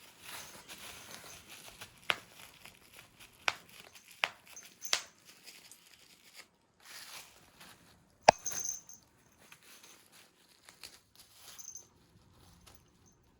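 Rustling and crinkling during play with a cat, broken by several sharp taps and knocks; the loudest knock comes a little past eight seconds in, and things quiet down near the end.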